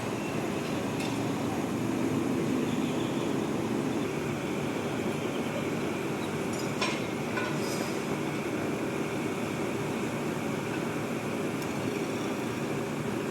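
Heavy diesel engine of a mobile crane running steadily under load, with a few short sharp metallic clicks about a second in and again around seven seconds in.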